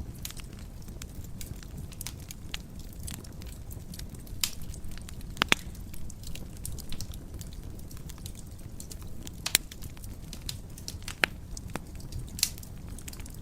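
Fireplace fire crackling: a steady low rumble of burning with frequent small crackles and scattered sharp pops, the loudest about five and a half seconds in and again near nine and a half seconds.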